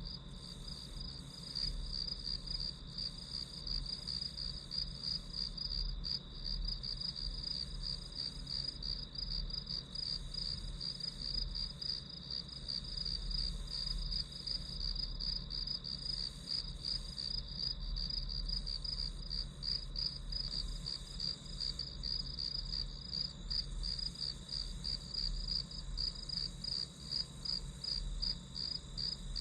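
Crickets chirping in a steady, rapidly pulsing high trill that doesn't let up.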